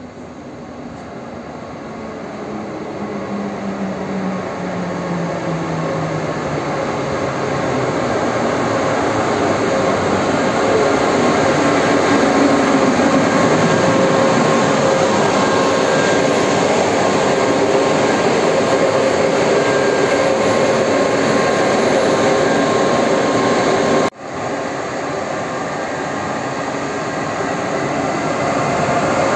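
EU07A electric locomotive hauling a passenger train into the station, its running noise growing louder as it approaches and passes, with a tone that falls in pitch over the first few seconds as it slows. The sound drops out for an instant about 24 seconds in, then carries on.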